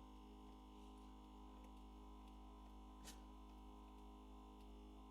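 Near silence: a faint steady electrical hum, with one faint click about three seconds in.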